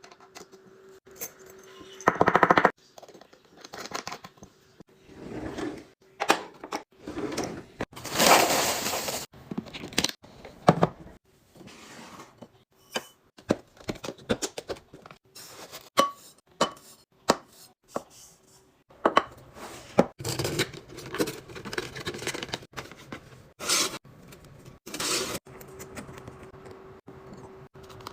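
Household containers and packaging being handled and restocked: a string of clicks, knocks and clinks as items are set down, opened and arranged, with a longer rushing sound about eight seconds in.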